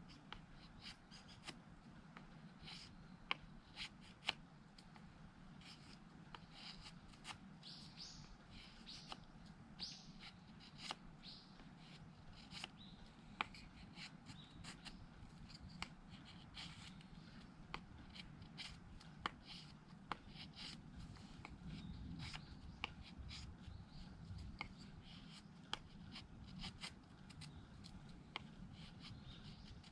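Knife blade shaving thin curls from a wooden stick to make a feather stick: a run of short scraping strokes with small sharp ticks, faint throughout, busiest at about a quarter of the way in.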